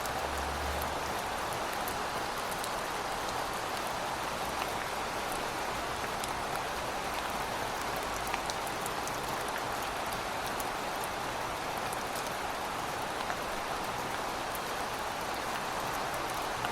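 Heavy rain falling steadily, an even hiss with scattered drops ticking on hard surfaces. A low hum is audible briefly at the start.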